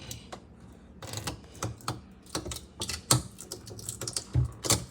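A run of irregular sharp clicks and light knocks, sparse at first and coming faster and louder in the second half.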